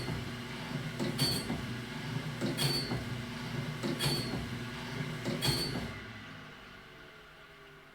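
Wood-Mizer BMS250 band saw blade sharpener running, its grinding wheel striking a blade tooth about every second and a half, five strokes in all. Near the end the strokes stop and the machine runs down.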